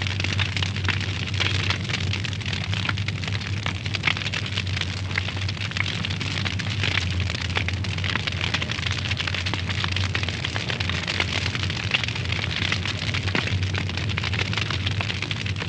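Wood fire burning in a fireplace: dense, irregular crackles and pops over a steady hiss, with a steady low rumble underneath.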